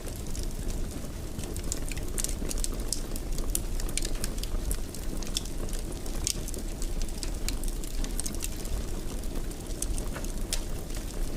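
Wood fire burning in a fireplace: many small irregular crackles and pops over a low, steady rumble of the flames.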